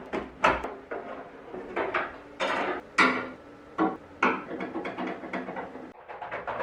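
Irregular series of sharp knocks and clinks of tools handling and striking small metal parts, some of them ringing briefly.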